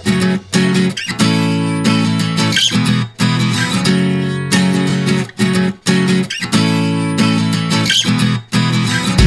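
Background music led by strummed acoustic guitar, with chord changes about every second or so.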